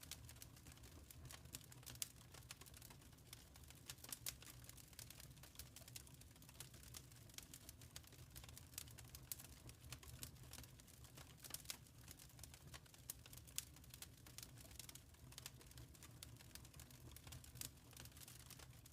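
Wood fire crackling quietly, with irregular sharp pops and snaps over a low steady rumble.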